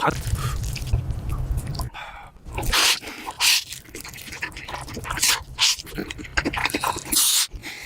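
Close-miked mukbang eating sounds: slurping and chewing of noodles, a run of wet mouth smacks and clicks that comes in quick, uneven bursts.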